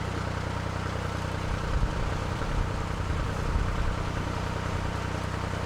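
Narrowboat engine running steadily at cruising revs. From about a second and a half in to about four seconds, gusts of wind rumble on the microphone.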